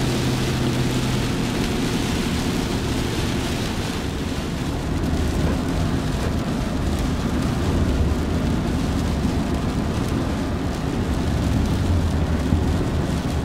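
Vehicle noise heard from inside a truck driving in the rain: a steady low rumble of engine and tyres with a continuous hiss of rain and water spray from the wet road.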